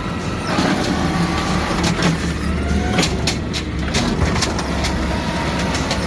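Garbage truck engine running steadily, with several sharp clanks and a faint sliding whine as the truck works a pickup.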